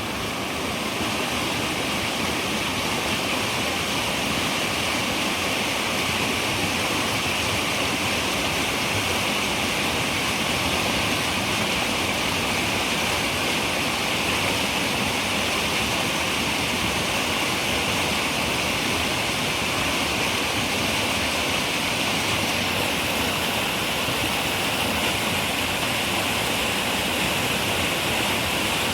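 River water running, a steady, unbroken flowing sound.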